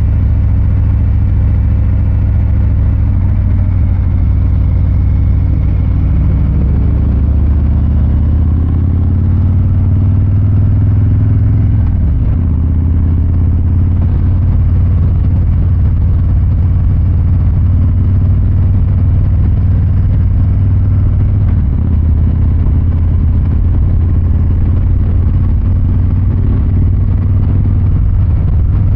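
Harley-Davidson Fat Boy 114's Milwaukee-Eight 114 V-twin exhaust rumbling steadily at low revs while cruising, with a few gentle shifts in pitch as the revs change.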